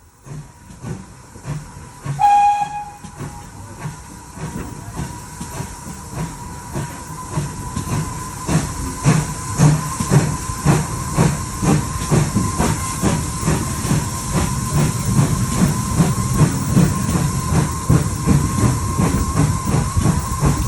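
GWR 6400-class pannier tank steam locomotive giving a short whistle toot about two seconds in, then starting away, its chuffing exhaust beats growing louder and quicker.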